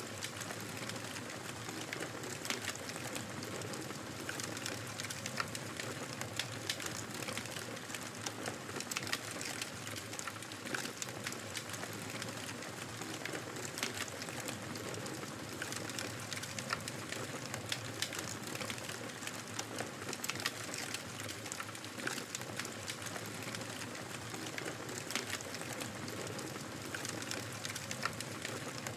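Wood fire crackling in a fireplace: a steady hiss of burning with frequent small, sharp pops and snaps.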